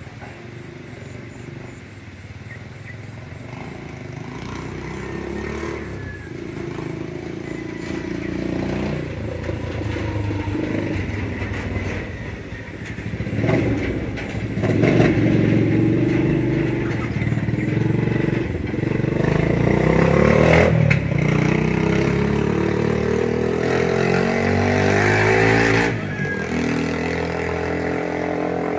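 Motor vehicle engine running close by, growing louder over the first twenty seconds or so. About 26 seconds in it drops suddenly to a quieter, steady running.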